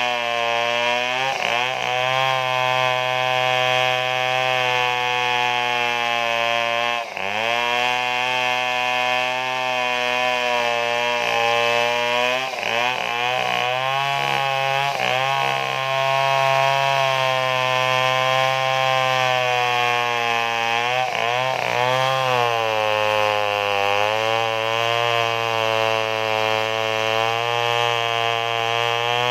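Stihl two-stroke chainsaw running at high speed while cutting a large tree trunk. Its pitch dips briefly and recovers several times as the chain loads up in the wood.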